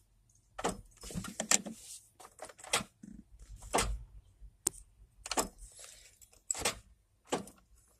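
Irregular handling noises: scattered clicks, taps and soft rustles, with a few sharper clicks among them.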